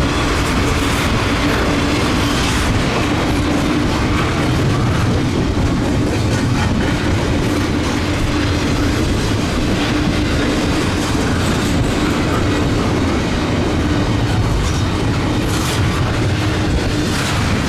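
Double-stack intermodal freight train rolling past: a steady rumble of steel wheels on rail with a constant hum and a few clacks as the container cars go over rail joints.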